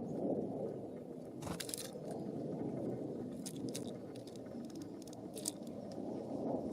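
Wind rumbling on an outdoor microphone, with a few short sharp crunching clicks: one about a second and a half in, two close together near the middle, and one more near the end.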